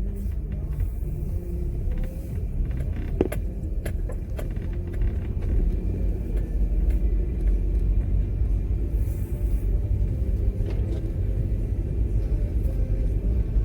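Car driving, with a steady low engine and road rumble and a few light clicks about three and four seconds in.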